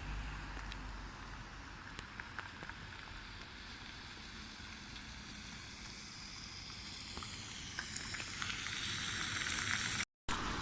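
A steady rushing hiss of outdoor noise that grows louder over the last few seconds, with a few faint clicks and a brief dropout near the end.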